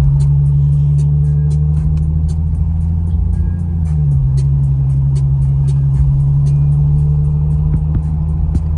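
Infiniti Q50's 3.7-litre V6 engine and modified exhaust droning steadily under light load while cruising. The drone dips slightly in pitch about four seconds in, with faint ticking over the top.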